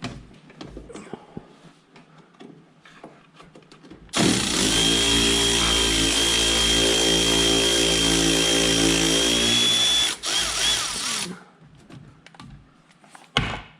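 A handheld power tool runs at a steady speed for about six seconds, then stops abruptly, with light clinks of tools and metal parts before and after.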